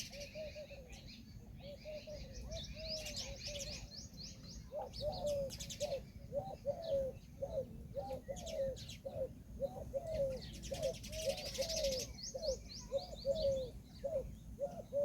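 Peahen giving a long series of short, low, arched calls, sparse at first and then coming about two to three a second from about five seconds in. Smaller birds chirp higher at a few points.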